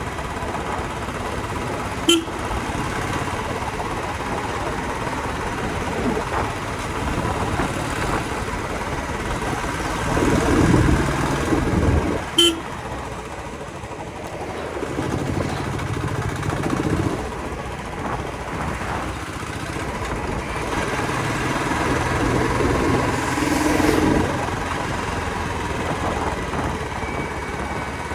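Royal Enfield motorcycle running on the road, its engine and the road noise rising and falling with traffic. Two short sharp clicks come about two seconds and twelve seconds in.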